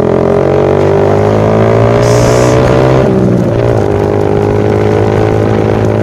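Yamaha Vixion's single-cylinder four-stroke engine running through a Kou Mahachai aftermarket racing exhaust under throttle while riding. Its pitch climbs for about three seconds, drops, then holds steady.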